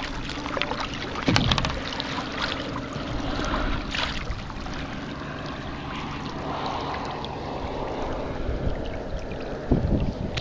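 Water lapping and sloshing around a kayak hull, with wind on the microphone and a few short knocks or splashes.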